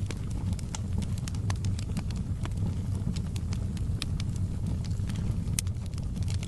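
Wood fire burning in a fireplace: a steady low rumble of flames under frequent sharp crackles and pops, with one louder pop near the end.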